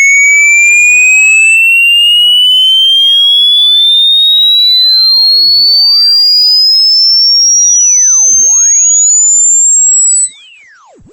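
A loud, piercing electronic pure tone rising steadily in pitch, from a high whistle to a shrill squeal, with faint ghost tones gliding up and down around it. It cuts off abruptly about ten seconds in.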